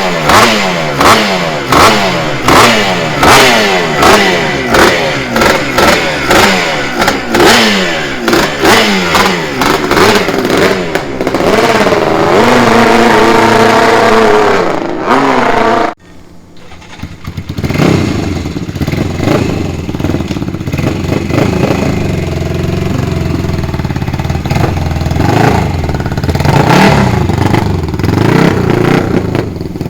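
Classic air-cooled racing motorcycle engines being revved. The first is blipped over and over, then held at high revs. About halfway it cuts to a second bike running lower, with a few throttle blips near the end.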